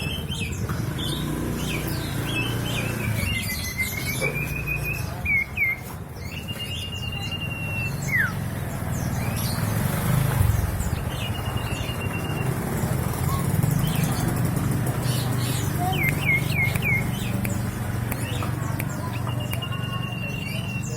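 A caged cipoh (common iora) singing: long, clear, level whistles and a wavering whistled phrase, with a falling note and a few quick chirps between them. A steady low rumble runs underneath.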